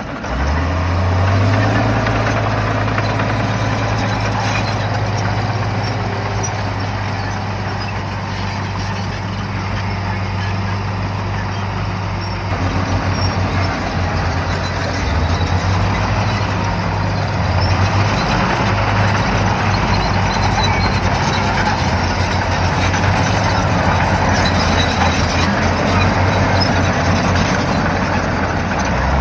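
Shantui bulldozer's diesel engine running under load, revving up about a second in and then holding a steady pitch.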